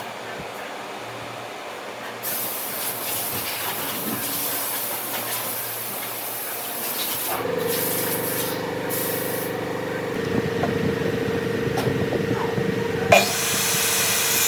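Workshop power tools at work on wood. A loud hiss starts about two seconds in, a motor begins a steady hum about halfway through, and there is one sharp knock near the end.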